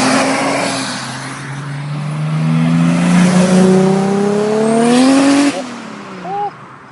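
Sports car accelerating hard on pull-out, its engine note climbing steadily in pitch as it revs up, then cutting off suddenly about five and a half seconds in.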